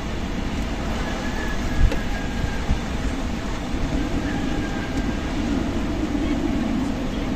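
Strong wind blowing in a steady, deep rumbling rush.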